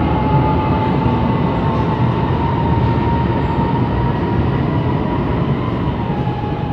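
Light rail train running: a steady rumble with a high whine held over it.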